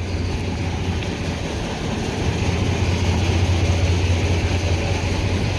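YaMZ-236 V6 diesel of a TU6A narrow-gauge locomotive idling steadily in neutral, a constant low hum.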